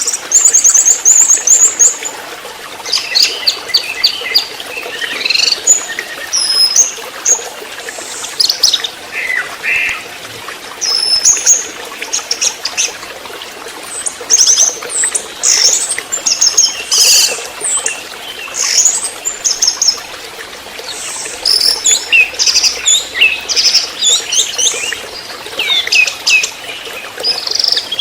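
Juvenile orange-headed thrush (anis merah trotol) singing in short, quick, varied high-pitched phrases with brief pauses between them, over a faint steady hiss.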